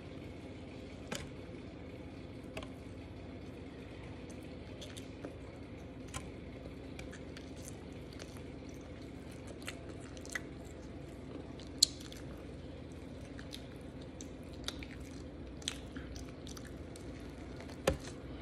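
Close-up wet chewing and lip-smacking of a chicken sandwich, with scattered sharp mouth clicks, and a louder bite into the sandwich just before the end. A steady low hum runs underneath.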